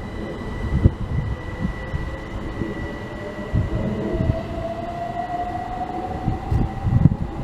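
Class 379 Electrostar electric multiple unit pulling away, its traction motor whine rising slowly in pitch as it gathers speed, over a low rumble of wheels with irregular thuds from the rail joints.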